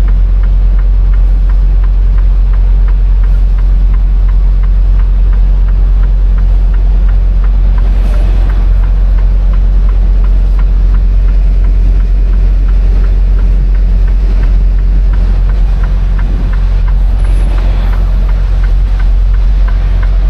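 Semi-truck diesel engine running with a steady low drone while the tractor-trailer is maneuvered, with a faint, regular ticking about twice a second on top.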